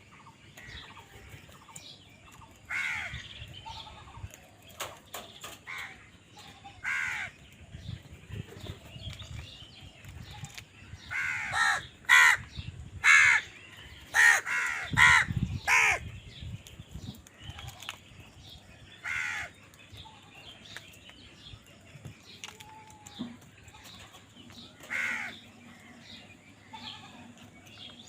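Crows cawing: single harsh caws every few seconds, with a quick run of about six louder caws in the middle.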